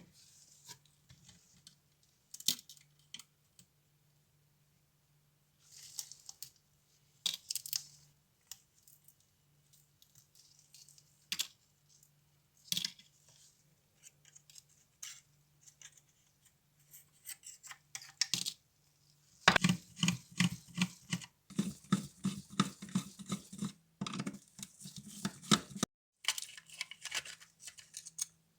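Small hand-work sounds: scattered clicks and short scrapes, then several seconds of fast, rasping strokes about two-thirds of the way through.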